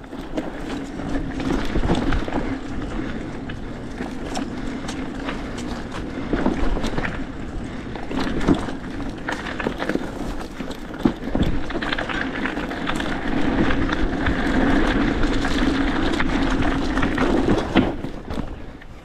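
Hardtail mountain bike ridden over a bumpy dirt trail: steady tyre and wind noise, with a few sharp knocks as the bike, with its rear rack and trunk bag, hits bumps and roots.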